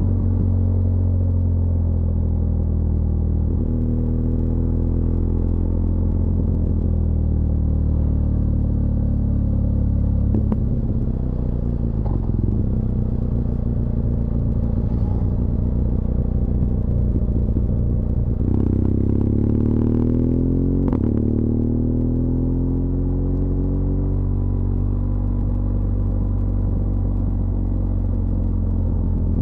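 BMW R1200GS LC Adventure's liquid-cooled boxer twin engine running steadily on a downhill ride. Its pitch shifts as the revs change, most noticeably with a run of rising and falling notes about two-thirds of the way through.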